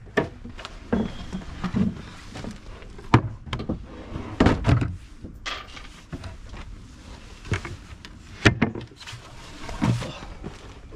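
A dozen or so irregular knocks, thuds and clatters, spaced unevenly, from wooden panels and fittings being handled and fixed in place in the van.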